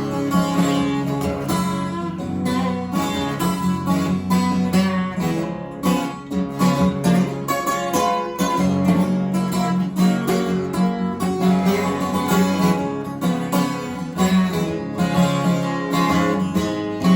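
Acoustic guitar playing an instrumental country-blues break, picked notes over strummed chords, with no singing.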